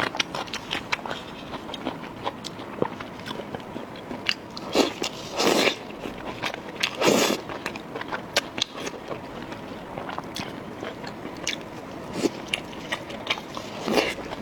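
Close-miked eating: a person biting and chewing food, with many small crisp clicks and crunches. Two louder, longer mouth sounds come about five and seven seconds in.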